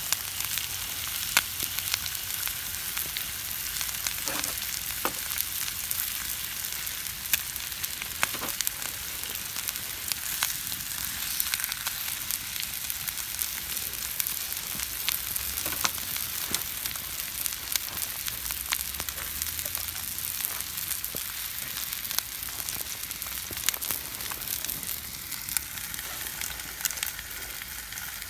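Food frying in a pan over a campfire: a steady sizzling hiss with frequent sharp pops and crackles.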